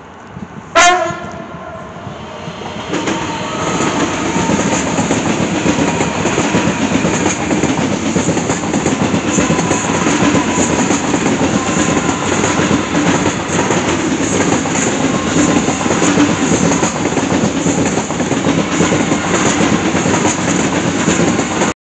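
ICE high-speed train giving one short horn blast about a second in, then passing close by with the steady loud rolling of its wheels on the rails. The sound cuts off suddenly near the end.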